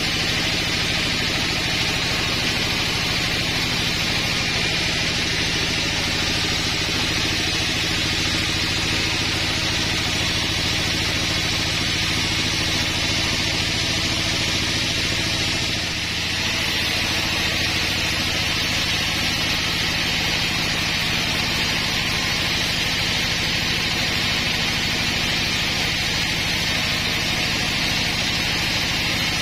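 Engine-driven sawmill running steadily while sawing a large pine log: a constant engine hum under a strong, even hiss from the saw. The level dips briefly about halfway through.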